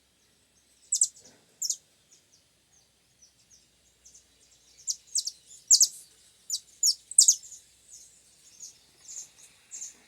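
Small songbird chirping in short, sharp, high-pitched notes: two about a second in, then a quick run of chirps in the middle, with fainter chirps after.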